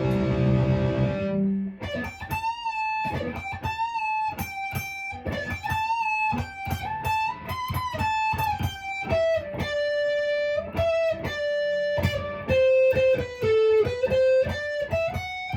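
Gretsch hollow-body electric guitar played clean through its neck pickup. A chord rings out at first, then a single-note melody is picked, with some notes bent or given vibrato.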